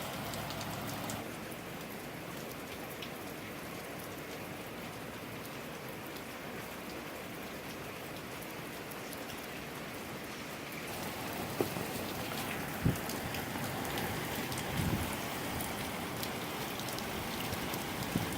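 Rain falling steadily, growing louder about eleven seconds in, with a few short sharp knocks.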